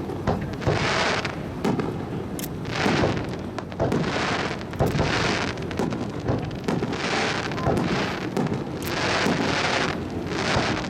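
Aerial fireworks going off in quick succession: sharp bangs mixed with hissing, crackling bursts about once a second.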